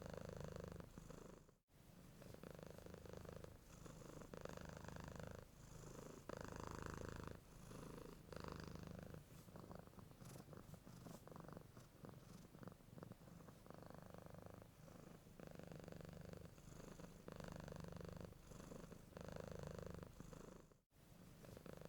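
Domestic cat purring softly and steadily, pulsing in cycles of about a second as it breathes in and out. The sound briefly cuts out twice.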